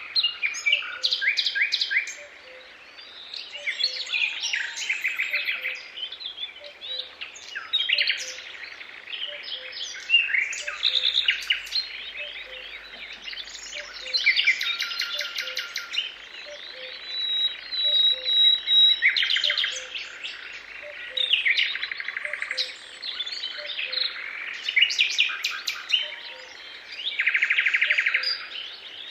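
A chorus of songbirds singing and calling over one another, with fast trills and chirps. Underneath runs a faint, evenly repeated low pip.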